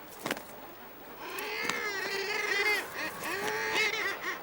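Seabirds at a cliff colony calling: a short knock, then from about a second in several overlapping honking calls that rise and fall in pitch.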